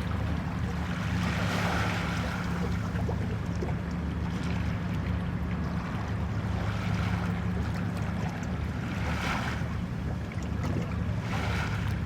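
Waves washing against a pier, swelling every two to three seconds, over a steady low hum.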